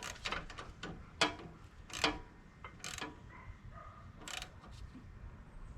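Ratchet wrench clicking in short, irregular strokes as a 1/2-inch nut is tightened onto a terminal of a new starter solenoid.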